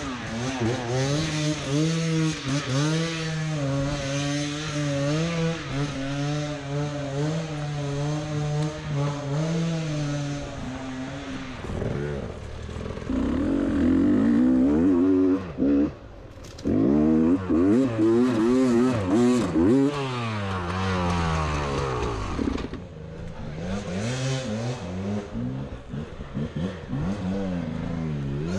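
Beta 300 RR single-cylinder two-stroke dirt bike engine running at a steady pitch, then revving up and down repeatedly with throttle changes. The engine briefly drops away about sixteen seconds in before picking up again.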